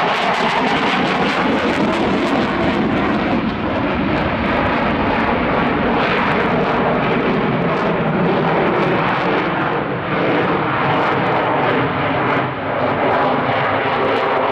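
Swiss Air Force F/A-18 Hornet's twin jet engines, loud and steady as the fighter flies its display.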